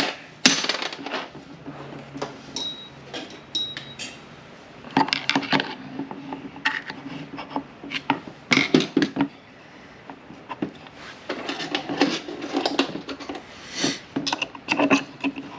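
Metal parts of an M5R1/M5R2 manual transmission shift tower clinking and knocking as a shift fork is worked up and off its shift rail: irregular clicks and taps with a few louder knocks, one or two briefly ringing.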